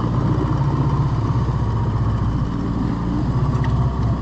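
Dinghy's outboard motor running steadily, an even engine hum.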